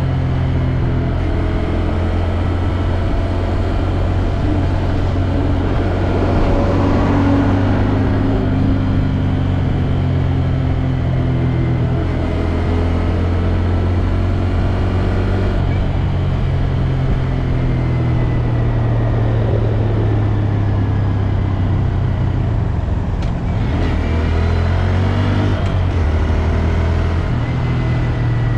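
2022 Honda Grom's small single-cylinder engine running under way, its pitch stepping up and down a few times with throttle and gear changes.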